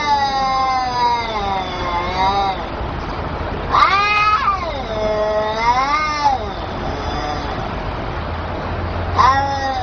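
Kittens meowing back and forth in long, wavering calls, about four of them with short gaps between.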